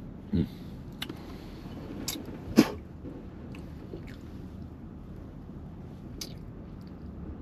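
A person eating close to the microphone: chewing and biting, with a few short sharp clicks and knocks, the loudest about two and a half seconds in, over a steady low hum.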